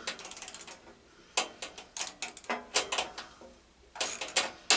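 Hand ratchet clicking in several short bursts as it is swung back and forth, tightening a 5/16 fastener on a lawn tractor's steering box.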